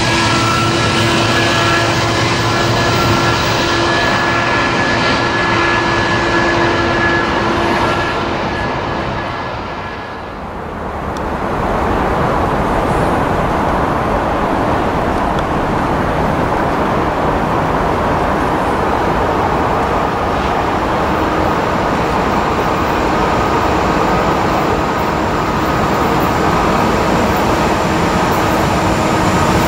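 Two Union Pacific freight trains passing close by. First comes the rumble of a train with a Tier 4 GE ES44AC diesel locomotive, a few steady tones ringing over it, which fades out about ten seconds in. Then the noise of a second freight train builds as it approaches and holds steady as it passes.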